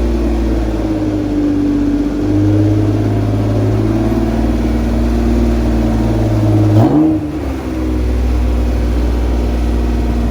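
Honda NSX V6 engine idling steadily, with one brief blip of the throttle about seven seconds in.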